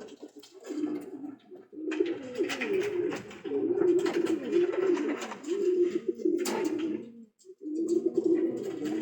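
Domestic pigeons in a loft cooing, many birds overlapping, with a brief lull about seven seconds in and scattered light clicks and scratches.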